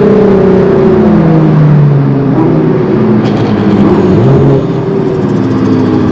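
Car engine running loud, its note falling steadily through the first couple of seconds and then holding at a lower pitch.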